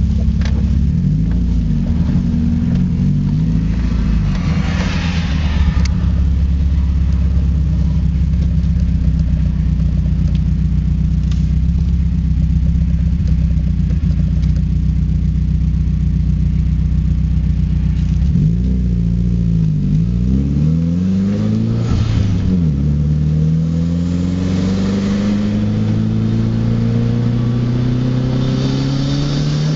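2004 Subaru WRX's turbocharged flat-four engine heard from inside the cabin on track, running at steady high revs for a long stretch. About two-thirds of the way in the revs dip and surge several times as the car slows and shifts, then climb steadily under acceleration near the end.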